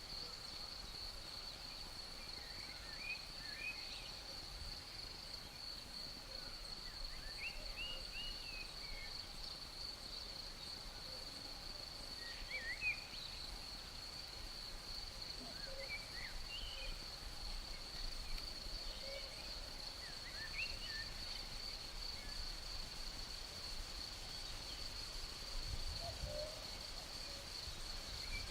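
Crickets trilling in one steady high chorus, with short bird chirps scattered through. A brief low gust of breeze comes near the end.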